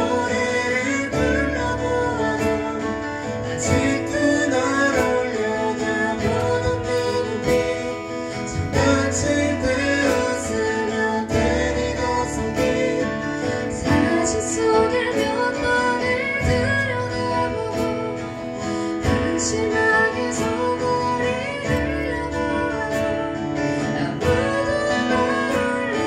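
Live band playing a ballad: guitars over held bass notes that change every couple of seconds, with a wavering melody line on top, an instrumental stretch with no sung lyrics.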